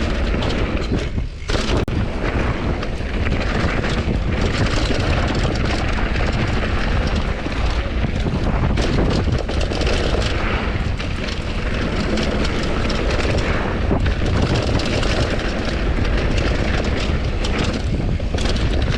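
Wind rushing over an action camera's microphone at downhill speed, with the Commencal Supreme DH bike's knobby tyres running over rough dirt and many small clattering knocks from the ride. The rush dips briefly about a second in.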